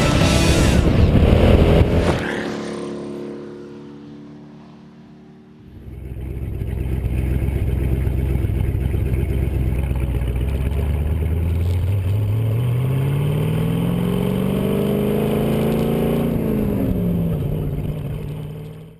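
Alessi AR-1 twin-turbo supercar engine. It is loud at first and fades away over a few seconds, then runs steadily, revs up over about four seconds and drops back near the end.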